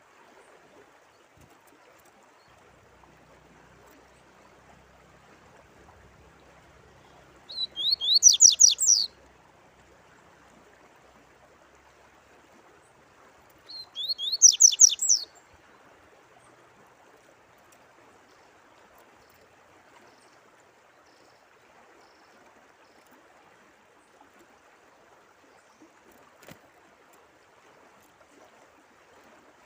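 Songbird singing two short phrases about six seconds apart. Each is a quick run of sharp, sweeping high notes lasting about a second and a half and getting louder, over a faint, steady trickle of running water.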